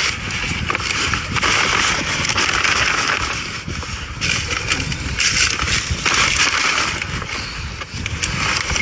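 Garbage truck running, a steady rumble under a strong hiss that swells and fades in stretches of a second or two.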